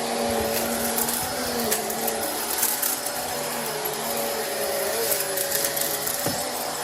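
Vacuum cleaner running steadily, its motor tone wavering slightly up and down, with a few faint clicks.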